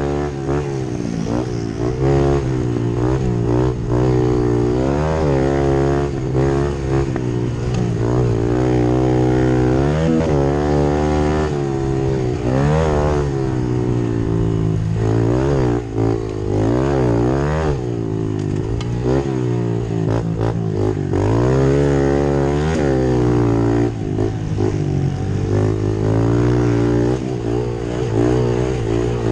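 Pit bike engines racing, revving up and falling off again and again, with a steadier engine note running underneath.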